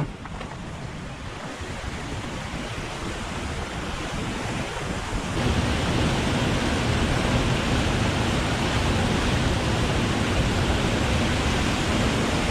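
Rushing white water of a river rapid, a steady roar that grows louder, stepping up sharply about five seconds in.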